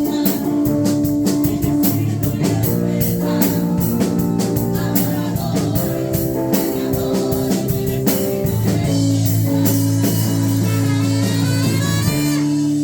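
Live worship band music: electric guitar, bass and drum kit playing with held chords and a steady beat.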